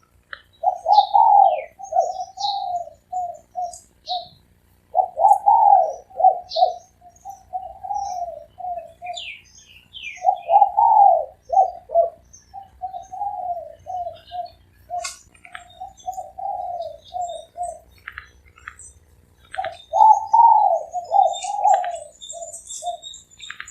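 Spotted dove cooing in four long repeated phrases, each a run of coos that trails off, with pauses between phrases. Small birds chirp high and briefly throughout.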